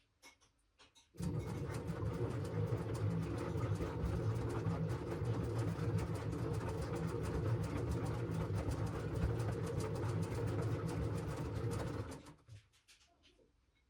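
LG washing machine drum turning the laundry: a steady motor-driven churn that starts about a second in and stops near the end, the usual pause between the drum's turns in a wash cycle.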